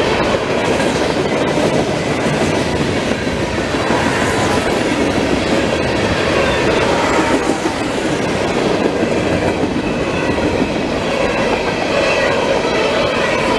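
CSX freight train's cars rolling past, steady wheel and rail noise with clickety-clack from the wheels over rail joints and faint wheel squeal.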